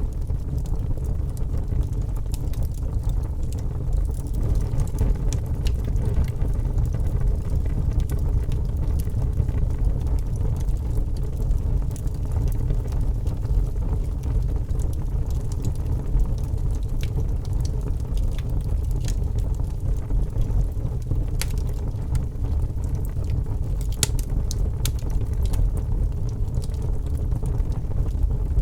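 Wood fire burning in a fireplace: a steady low rumble of flame with scattered sharp crackles and pops, a few louder pops together about 24 seconds in.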